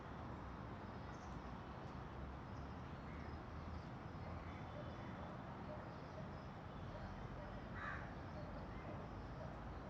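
Steady background noise with faint, scattered bird calls, and one louder harsh bird call about eight seconds in.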